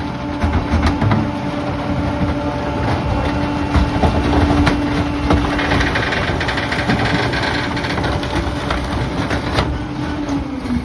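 Rear-loading garbage truck running while its packer compacts debris: a steady hydraulic whine over the engine, with many cracks and knocks of debris breaking.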